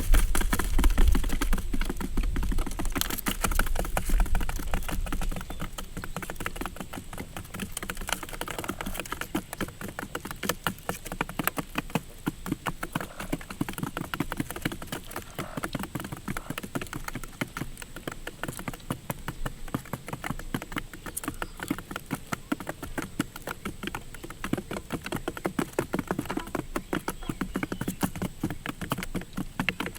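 Rapid, irregular tapping and clicking: many small knocks a second, louder with a low rumble for the first few seconds, then steadier and lighter.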